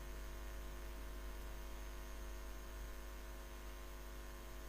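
Steady low electrical mains hum with no other sound.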